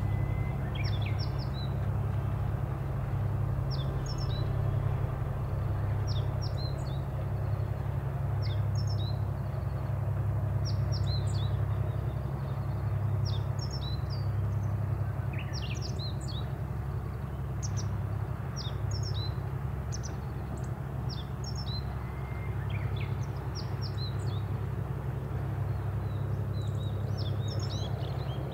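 Small birds chirping repeatedly, short high notes coming every second or so, over a steady low rumble that swells and eases gently.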